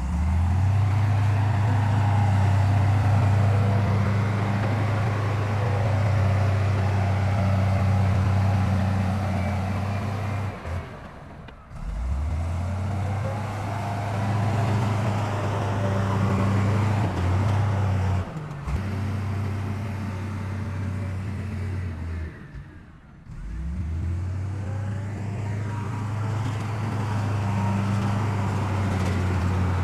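Heavy diesel engines of earthmoving machines running with a steady low drone. The sound drops out about 11 seconds in and again about 23 seconds in, and comes back each time with a short rise.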